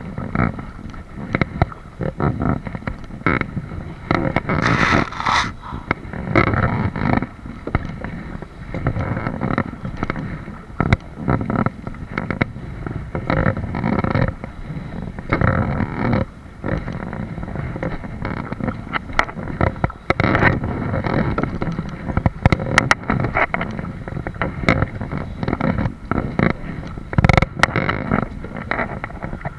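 Kayak on the water: uneven splashing, knocks and scrapes of the paddle and water against the hull, with rumbling noise on the microphone.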